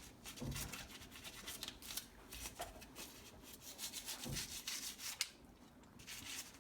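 Toothbrush bristles scrubbing soapy etched metal, faint quick back-and-forth strokes that pause for about a second near five seconds in.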